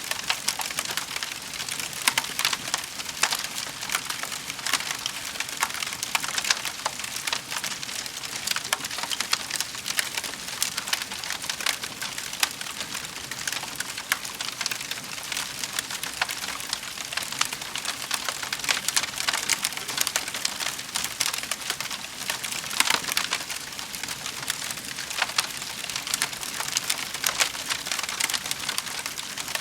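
Wood fire crackling in a fireplace: a dense, continuous run of small crackles and pops, with a few louder pops about three-quarters of the way through.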